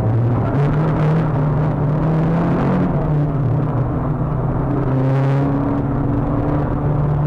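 Renault Clio 182's four-cylinder engine heard from inside the car at speed on track: the revs climb, drop about three seconds in as the driver shifts or lifts, then climb again.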